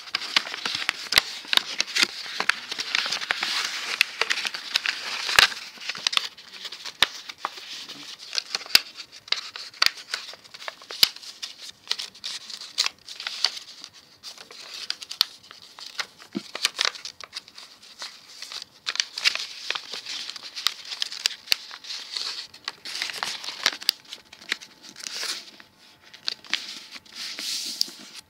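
A4 printer paper being folded and creased by hand, with continual crinkling, rustling and sharp crackles as the origami model is handled.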